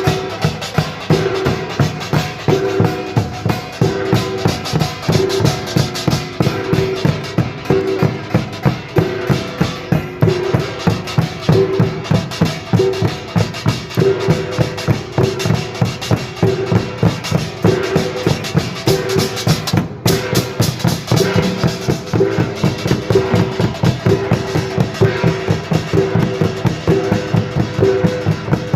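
Korean pungmul percussion ensemble of drums and gongs playing a fast, driving rhythm, with quick strikes several times a second.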